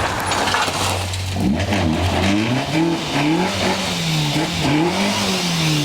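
Rally car engine at competition pace. It holds a steady low note at first, then revs up and down several times in quick succession.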